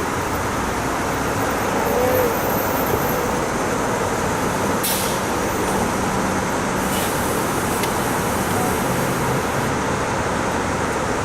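Heavy thunderstorm rain pouring down in a steady, even rush.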